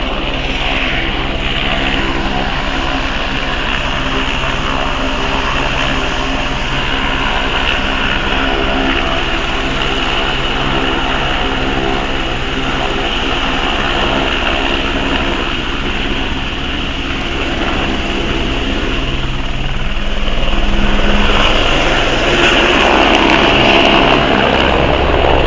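Esquilo helicopter's turbine and rotor running steadily as it flies its maneuver, growing louder about twenty seconds in.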